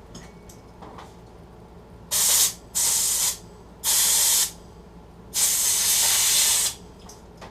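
Compressed air from an air compressor blowing out the passages and jets of a cleaned small-engine carburetor: four loud hissing blasts, the last one the longest.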